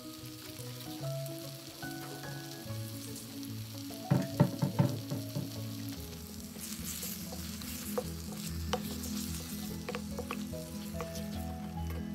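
Eggs sizzling as they fry in a stainless steel wok with moringa leaves and onions, a wooden spatula stirring and scraping them. A quick run of loud knocks comes about four seconds in, with smaller clicks from the spatula toward the end.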